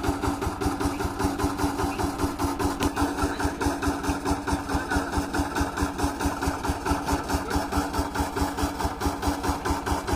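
Shakti power tiller's single-cylinder diesel engine running steadily at low revs, with an even beat of about four to five pulses a second.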